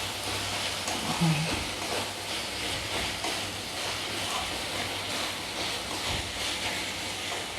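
Chicken keema and spiced onion masala sizzling steadily in a hot kadai while a spatula stirs it, with light scraping ticks. The spices are being fried down (kosha).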